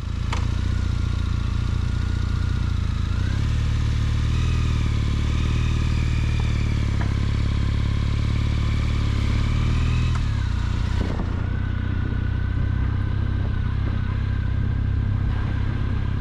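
Triumph Bonneville parallel-twin motorcycle engine running steadily, with revs rising about three seconds in, holding, then falling back about ten seconds in.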